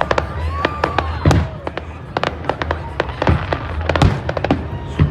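Fireworks display: a rapid string of sharp bangs and crackles, with about four deeper, heavier booms spread through.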